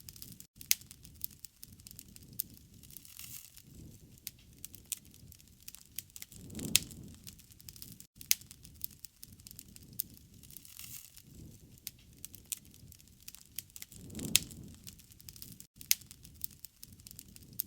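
Wood campfire crackling, with many sharp pops and snaps over a soft hiss. A brief low rush of flame returns about every seven and a half seconds as the recording loops.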